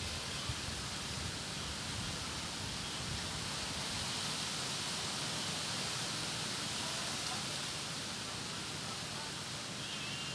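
Strong wind blowing through a melinjo tree, its leaves rustling in a steady hiss, with wind buffeting the microphone.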